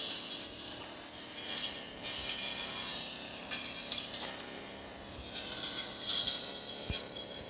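Brush cutter cutting grass: irregular hissy, rattling surges as it sweeps back and forth through the vegetation.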